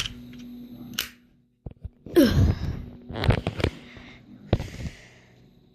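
Toy model cars being handled: a few separate sharp clicks and knocks, loudest in a cluster from about two seconds in.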